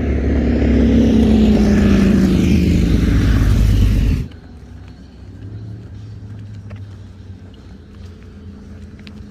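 A motor vehicle passing close by, its engine note dropping in pitch as it goes past. The sound cuts off abruptly about four seconds in, leaving a quiet outdoor background with a faint low hum and a few faint ticks.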